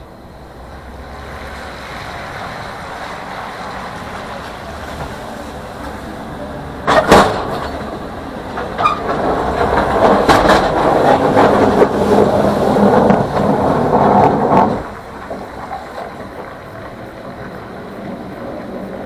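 Truck running, with a sharp loud knock about seven seconds in, then a louder stretch of mechanical noise that cuts off abruptly a few seconds before the end.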